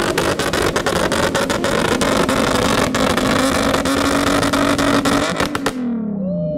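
Car engine held at high revs, loud, with rapid crackling through the exhaust noise; about six seconds in the throttle is released, the noise cuts off and the revs fall away.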